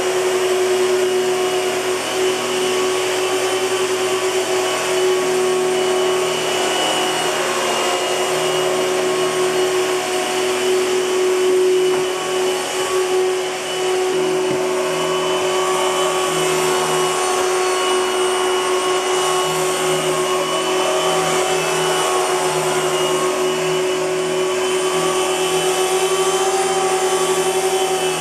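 1998 Hoover Futura canister vacuum cleaner running steadily: a rush of air with a constant mid-pitched whine, dipping briefly a couple of times.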